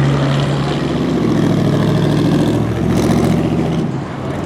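Car engine running at low revs with a steady pitch, dropping off somewhat near the end.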